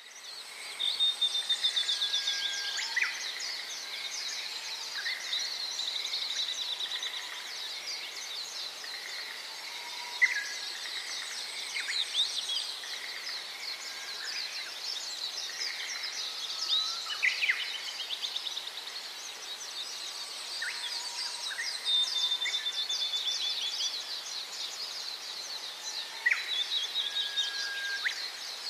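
Wild birds calling and chirping together: short whistled notes and quick rising calls over a dense, unbroken high chirping.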